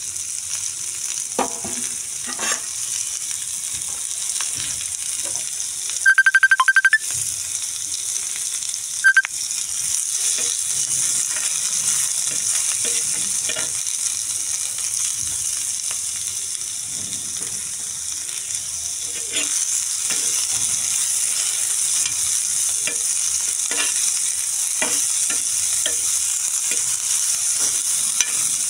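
Diced vegetables sizzling in hot oil in a black pan, with the scattered clicks and scrapes of a spatula stirring them. About six seconds in, a loud electronic beeping lasts about a second, and one short beep follows a few seconds later.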